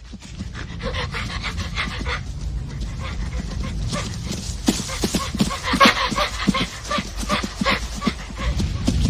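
A dog panting with quick, short yipping calls, densest in the second half.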